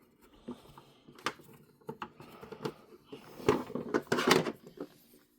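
Screwdriver working small screws out of a plastic toy car body: irregular clicks and scrapes, with a louder cluster of handling noise a little after three and a half seconds in.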